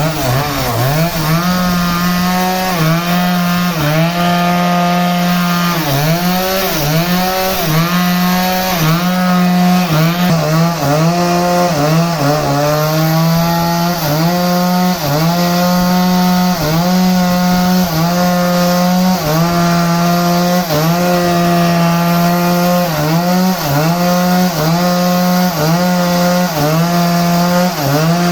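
Sawmill saw cutting teak root wood, its motor running loud and steady, with the pitch dipping briefly over and over as the blade takes load and then recovering.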